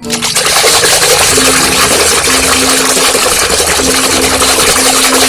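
Water pouring and splashing over a muddy plastic toy car as it is rinsed clean, a loud steady rush that starts abruptly.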